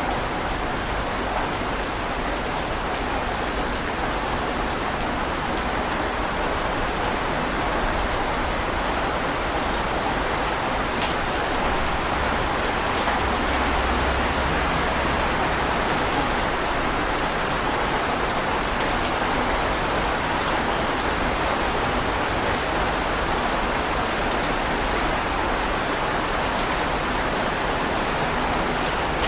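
Heavy rain falling steadily: a dense, even hiss with scattered sharp drop ticks. A faint low rumble swells briefly near the middle.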